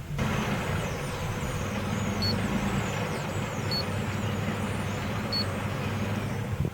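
2005 Ford Explorer engine idling rough, before its throttle position sensor is replaced. Three short high beeps about a second and a half apart sound over the steady engine noise.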